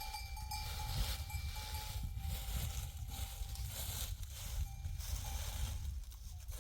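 Wind rumbling on the microphone, with a thin ringing tone that breaks off and returns several times.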